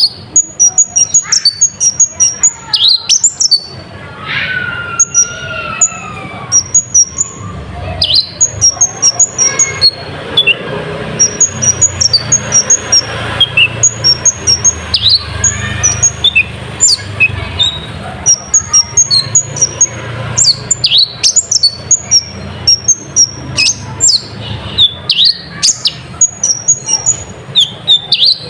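Kolibri ninja sunbird song: quick runs of short, high-pitched chirps and twitters repeated over and over, with a lower, wavering falling whistle about four to six seconds in.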